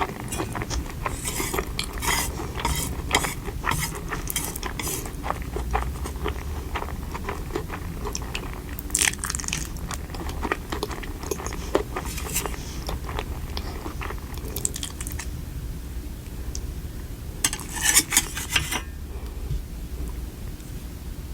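Close-miked eating sounds: chewing and crunching, with cutlery clinking and scraping on dishes, and a louder cluster of clatter near the end.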